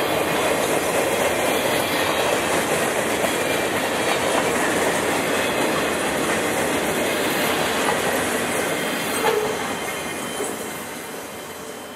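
Freight train cars, covered hoppers and open gondolas, rolling past on the rails with a steady clatter of wheels. There is a short, louder noise about nine seconds in, then the sound fades as the last car goes by.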